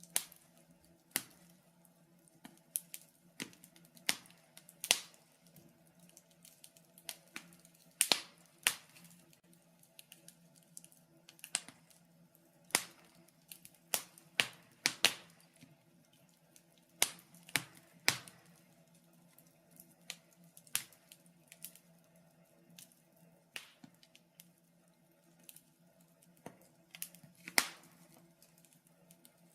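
Wood fire crackling in a fireplace, with sharp, irregular pops and snaps about once or twice a second over a faint steady low hum.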